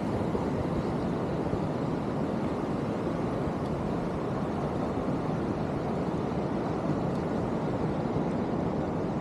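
Steady rushing wind noise buffeting the microphone while riding a bicycle along the beach.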